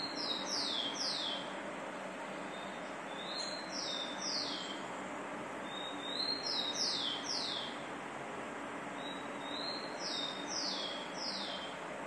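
A songbird repeating the same call phrase four times, about every three to four seconds: a short high note followed by three quick falling whistles.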